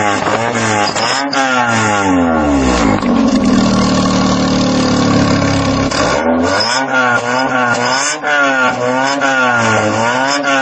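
1999 Mitsubishi Eclipse engine revving through a new aftermarket muffler, which the owner takes for an Apexi type. Quick blips up and down, then a rev held steady for about three seconds, then another run of quick blips.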